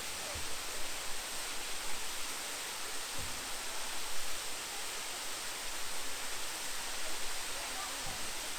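Steady rushing of a waterfall, falling water making an even noise.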